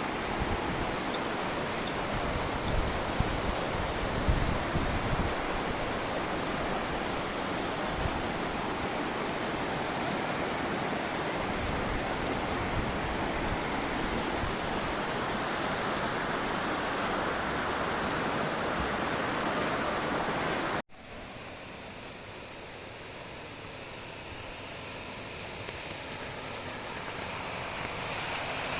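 Rushing water, a stream or waterfall, as a steady hiss. It breaks off abruptly about twenty seconds in and resumes quieter, growing louder toward the end.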